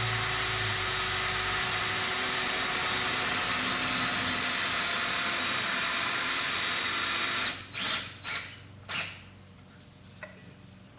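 Power drill driving a screw through a 2x4 into a wooden stump. It runs steadily, stops about three-quarters of the way in, then gives a few short trigger bursts as the screw is seated.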